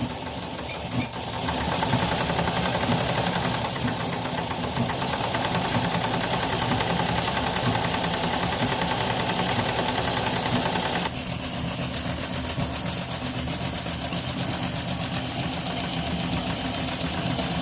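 Three-cylinder live-steam Shay model locomotive engine running forward under steam, with a fast, even beat and steam hiss. It gets louder about one and a half seconds in and eases off slightly about eleven seconds in.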